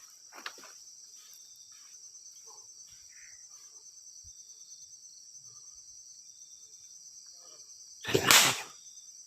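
Night insects trilling steadily in a high, fast-pulsing chorus. About eight seconds in, a loud sudden swishing burst lasting about half a second cuts across it.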